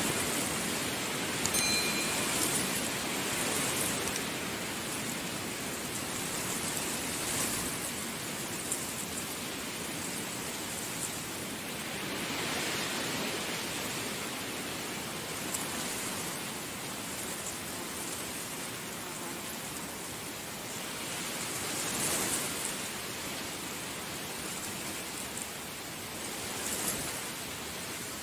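Heavy rain falling steadily, with a dense patter of drops on surfaces that swells a little now and then.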